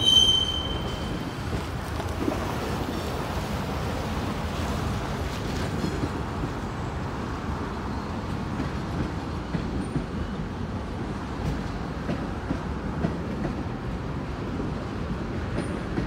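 Freight cars rolling over the rails beneath, a steady rumble of wheels on track, with a short high wheel squeal right at the start.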